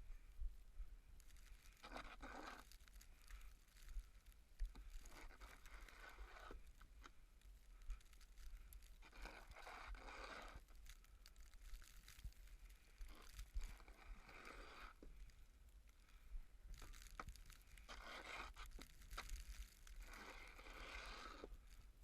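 Faint scraping crunches in snow, repeating every three to four seconds.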